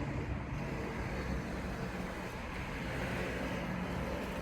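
Steady outdoor background noise: a low rumble with a hiss over it, and no distinct events.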